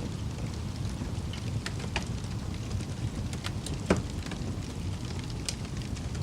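Fire crackling: a steady low rumble of flames with scattered sharp pops and snaps, one louder pop about four seconds in.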